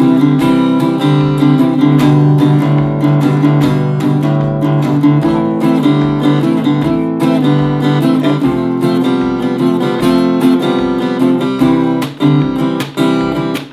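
Acoustic guitar strummed in a steady campfire pattern through a C–G–Am–F chord progression, with the thin high E string damped rather than fretted.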